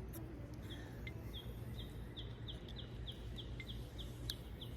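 A small bird calling a rapid series of short, high, slightly falling chirps, about three a second, over a steady low rumble of outdoor background noise.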